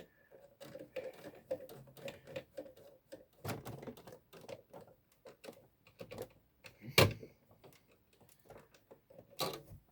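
Irregular clicks, taps and light knocks of an original Xbox's hard drive and its mounting being handled and fitted into the console, with one sharp, loud knock about seven seconds in.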